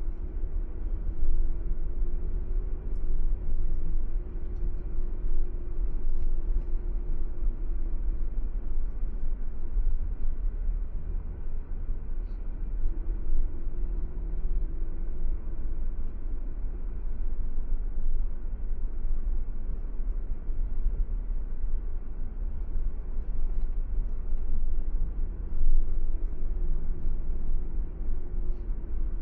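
A car driving: a steady low road and engine rumble, with a faint hum that comes and goes.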